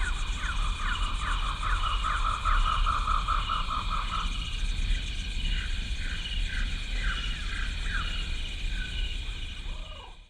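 Jungle ambience: a steady high insect drone under a fast run of repeated falling chirps for about four seconds, then slower, spaced falling calls. It cuts off abruptly at the end.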